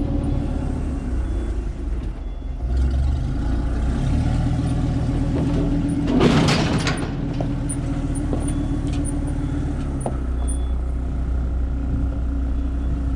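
Motor vehicle engine idling with a steady low hum, and a short loud burst of hiss about six seconds in.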